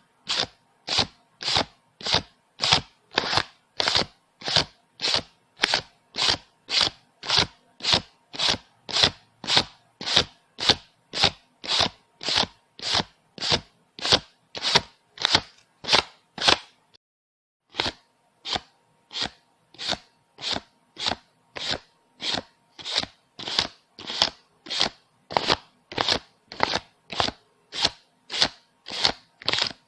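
Paper banknotes being counted by hand, each bill flicked off the stack with a crisp snap, about two a second in a steady rhythm. There is a pause of about a second near the middle before the counting resumes.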